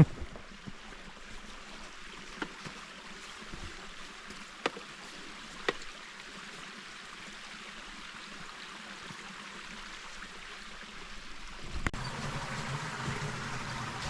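A steady wash of moving water, with a few light, sharp knocks scattered through it. Near the end it changes abruptly to a louder, fuller rushing noise.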